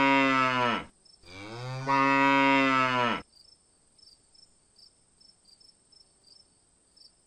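A cow mooing: the end of one long moo, then a second moo of about two seconds that drops in pitch as it ends. Faint, evenly spaced cricket chirps follow.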